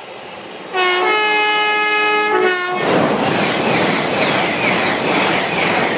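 LNER Class 801 Azuma electric train sounding its two-tone horn for about two seconds, the pitch changing twice, then rushing through the station at speed with loud wheel and track noise.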